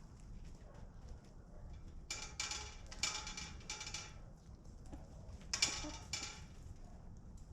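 Chickens in a henhouse: a few short raspy squawks at about two to four seconds in and again near six seconds, over a low steady rumble.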